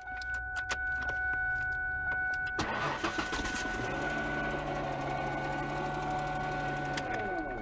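Car starter motor cranking the engine for about four seconds without it catching, then spinning down with a falling whir. A few light clicks come before it, and a steady high-pitched tone sounds throughout.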